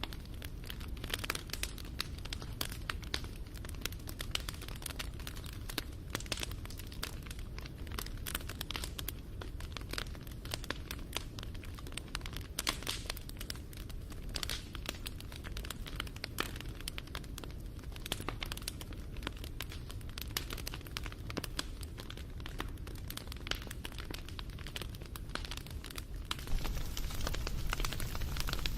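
Wood fire crackling and popping over a low steady rumble, getting a little louder near the end.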